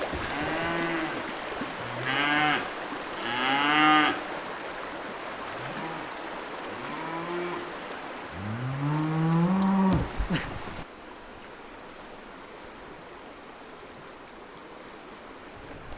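Cattle mooing, about six moos in the first ten seconds, the last one longest and rising in pitch.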